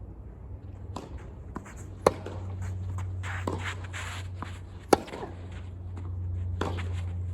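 Tennis ball struck by racket during play: two sharp hits a little under three seconds apart, with fainter knocks and shoe scuffing on the court between them. A steady low hum lies underneath.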